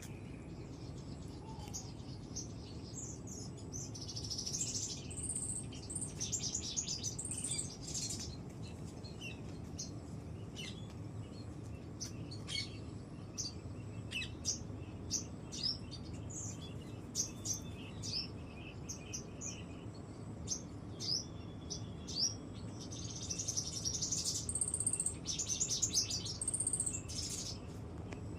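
Birds chirping and singing, with scattered single chirps and two fuller bursts of song, one about four seconds in and one near the end, over a steady low background hush.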